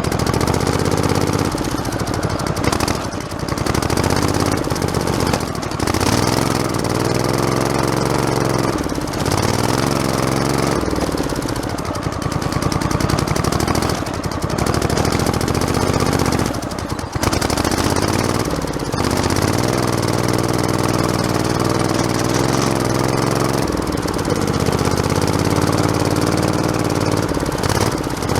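Modified lawn tractor's small engine running while driving a forest trail, its pitch rising and falling several times with throttle and load. Frequent knocks are heard over the engine.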